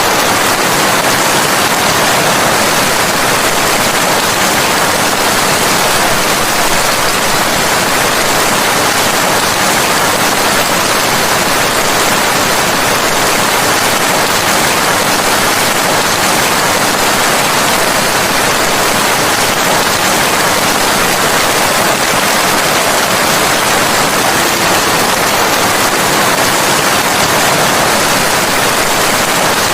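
Steady heavy rain: a dense, even hiss without breaks or distinct drops.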